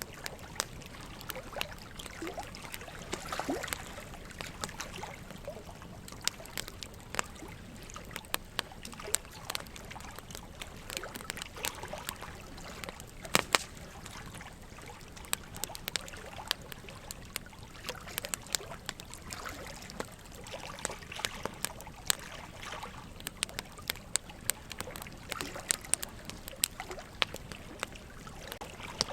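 Wood fire crackling, with irregular sharp pops and snaps, over a steady trickle of running water.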